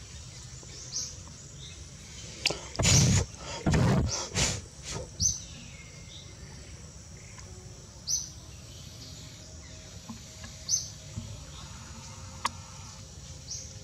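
Outdoor forest ambience: a bird gives a short, high chirp every two to three seconds over a steady background hiss. A cluster of loud rustling noises comes about three to five seconds in.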